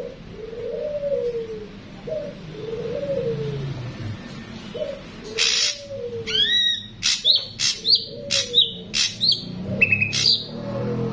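Ashy drongos calling: sharp high chirps and short rising whistles come in quick succession from about halfway through. Underneath, a low falling cooing note repeats about once a second.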